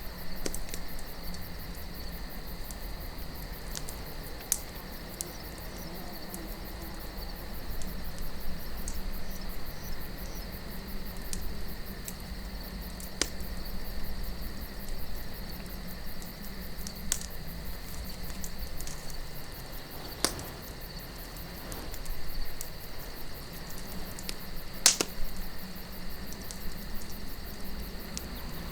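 Campfire of burning wood crackling, with a handful of sharp pops scattered through, the loudest near the end, over a steady low wind and an unbroken chorus of chirping crickets.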